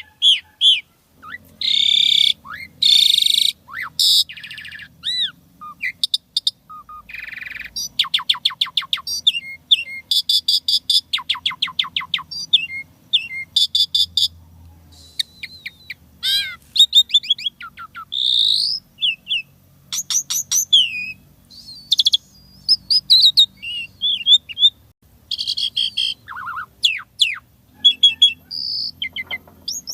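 Javan pied starling (jalak suren) singing a long, varied song: clear whistles, rapid trills, rising and falling glides and short harsh notes, with mimicked 'isian' phrases woven in.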